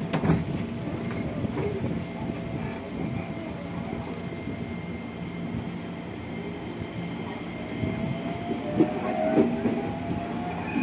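Motor car of a 205 series electric train with a Toyo VVVF inverter, heard on board: steady inverter tones over wheel and running rumble with occasional knocks. From about seven and a half seconds in, the motor whine rises in pitch as the train accelerates.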